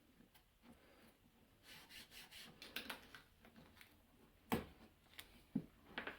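Faint handling of wooden jig pieces: light rubbing and small clicks, then a few sharper wooden knocks near the end.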